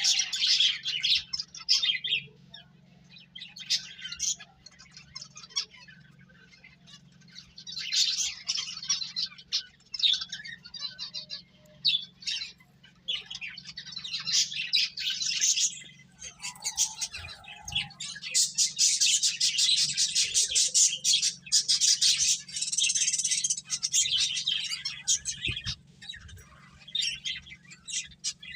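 Pet finches chirping and twittering in quick, high bouts, with brief pauses between bouts.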